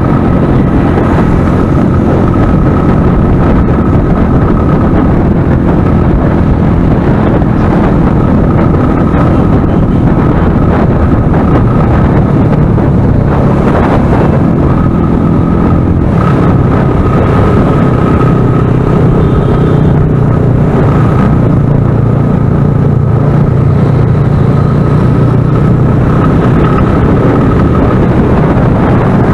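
Motorcycle engine running on the move, with heavy wind buffeting on the microphone and a thin, steady high whine over it.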